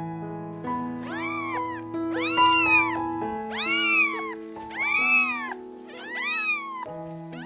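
Domestic cat meowing about six times in a row, each meow rising then falling in pitch, over background music with held notes.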